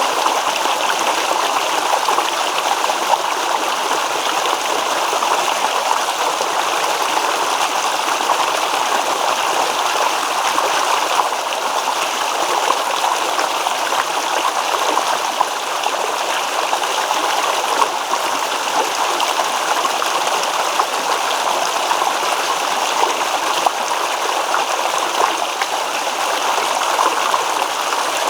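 Small stream babbling and gurgling over stones, a steady even rush of running water.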